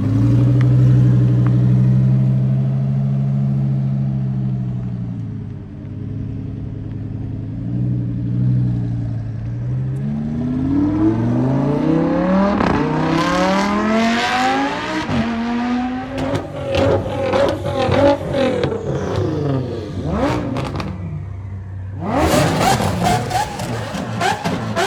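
Supercar engine with an aftermarket exhaust, held steady at first and then revved hard several times with rising pitch. Sharp pops and cracks from the exhaust come through the second half and are loudest near the end.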